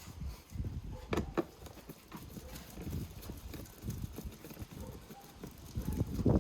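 Irregular clicks and knocks of a socket wrench and the plastic cabin air filter housing as its small bolts are undone.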